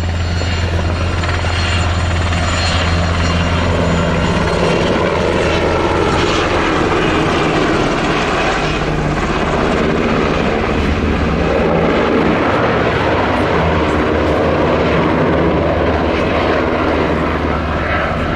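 Helicopter running close by: a loud, steady low drone of rotor and turbine engine noise.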